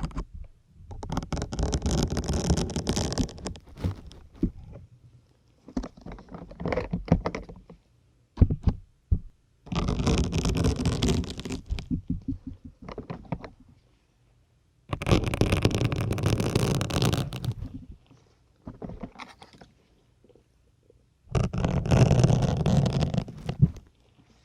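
Syringe needles being pushed into a firm grey sponge, two at a time, making a drawn-out textured scraping, squelching sound. There are four long pushes of two to four seconds each, with shorter ones in between.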